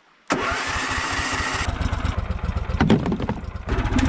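An engine running with an even low pulse, cutting in abruptly after a moment of silence. A thin whine sits over it for the first second or so, and there is a sharp knock about three seconds in.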